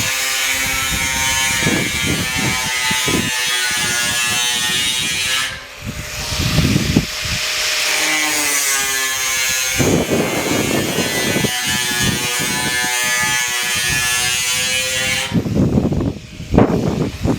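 Electric power tool cutting steel roofing sheet: a steady motor whine, broken by a rougher, noisier stretch in the middle, and ending in a few sharp metallic knocks near the end.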